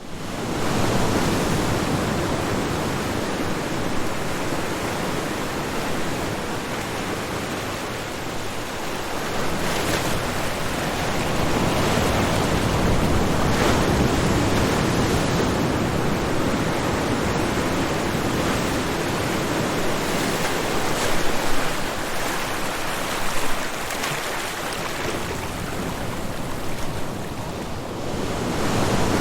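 Ocean surf washing onto a shore: a continuous rush of breaking waves that swells and eases, dipping briefly and building again near the end.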